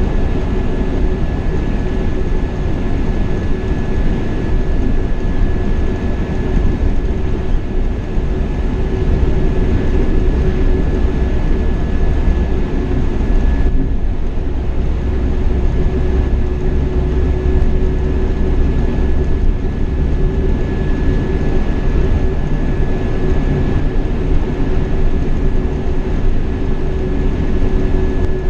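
Steady running noise of a Marcopolo Paradiso 1800 DD double-decker coach on a Scania K420 chassis cruising on the highway, heard inside the coach: a continuous engine and road rumble with a steady whine over it.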